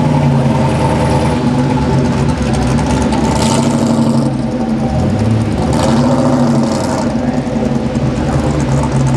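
Morgan Plus 8's Rover 3.5-litre V8 running at low revs as the roadster pulls away and turns, its pitch rising and falling slightly with the throttle.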